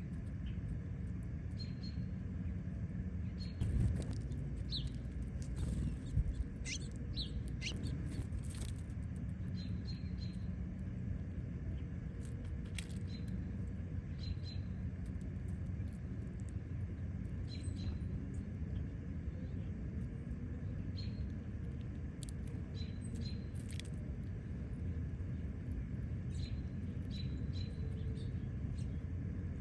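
Wild songbirds at a backyard feeder giving short, high chirps again and again, with a few quick sweeping notes, over a steady low rumble. There are two brief low thumps, about four and six seconds in.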